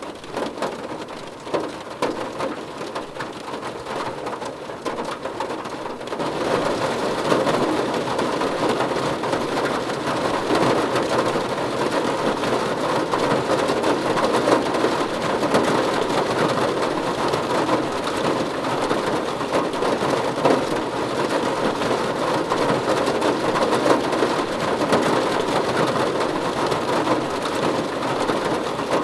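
Heavy rain falling steadily, growing louder and denser about six seconds in.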